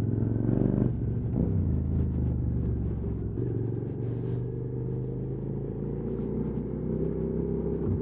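QJ Motors SVT650X motorcycle engine running through an Arrow slip-on exhaust, with a brief rise in revs about a second in, then holding steady at low revs.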